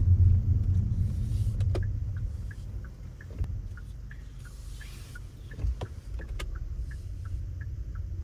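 Car engine running with a low rumble that eases off after two or three seconds. Faint short ticks repeat about three times a second, and there are a few scattered clicks.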